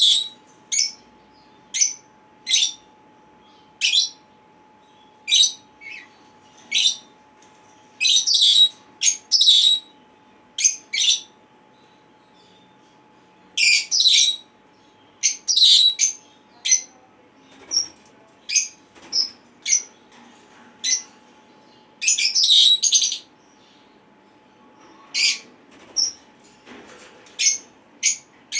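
Senegal parrots giving short, sharp, high-pitched calls, one every second or so, sometimes in quick bunches of several.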